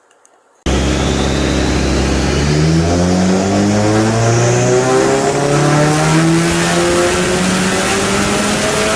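Car engine revving hard, its pitch climbing steadily over several seconds. It cuts in suddenly under a second in.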